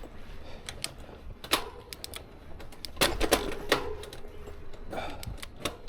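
Irregular sharp clicks and clacks from the bicycle's parts, with a loud single click about one and a half seconds in and a cluster about three seconds in.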